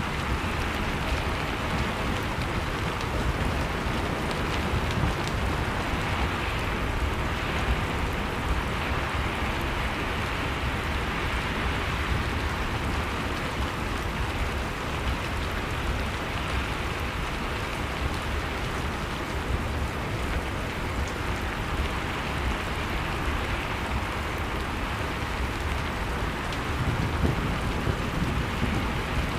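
Blizzard ambience: steady wind noise with a deep low rumble, mixed with a log fire crackling in fine, scattered pops. The low rumble swells briefly near the end.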